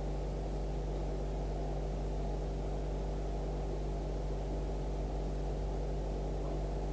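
Steady low electrical hum with a dull hiss, unchanging throughout, with no distinct events.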